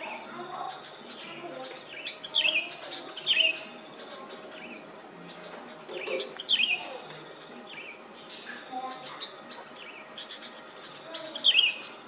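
Songbirds chirping: short, sharp notes that slide downward, in clusters of two or three every second or two, over softer warbling notes. A faint steady insect hum runs underneath.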